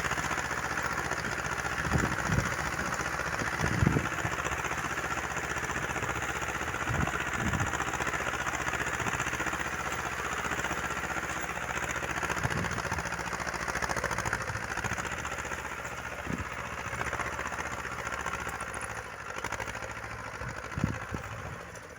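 Uralets mini-tractor engine running steadily while it tills the plot, with a few dull low knocks scattered through.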